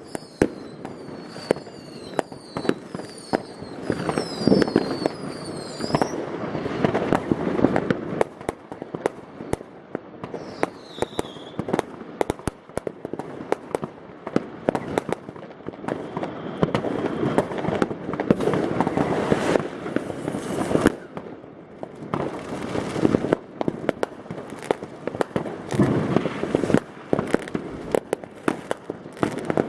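Many fireworks and firecrackers going off at once: a continual stream of bangs and crackling, with a quick series of whistling rockets in the first six seconds and another whistle about ten seconds in.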